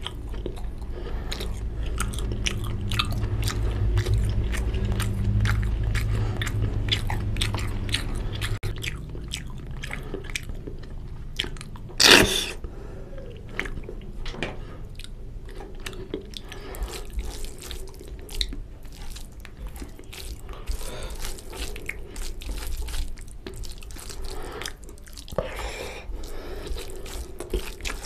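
Close-miked chewing of mutton curry, wet mouth clicks and smacks, with a deep rumble through the first several seconds. There is a single loud sharp sound about twelve seconds in. Near the end, fingers squish rice into curry on the plate.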